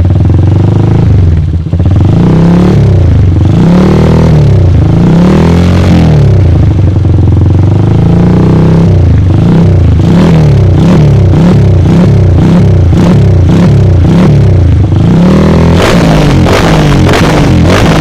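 Motorcycle with an aftermarket exhaust being revved over and over, the engine pitch sweeping up and dropping back. The blips come faster from about the middle, and grow louder and harsher near the end.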